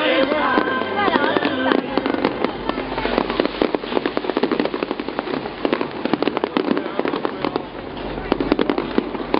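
Fireworks show: after about two seconds a dense, rapid crackle of many sharp pops sets in and keeps going, with pitched sounds of music or voices underneath at the start.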